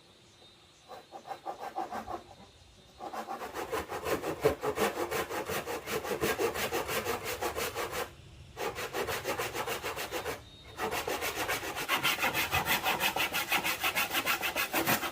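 Hand saw cutting through wood in fast, even back-and-forth strokes, in several runs broken by brief pauses.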